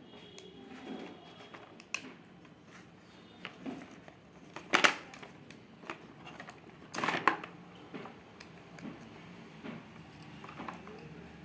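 Wooden craft-kit pieces being handled, with scattered light clicks and two louder knocks about five and seven seconds in.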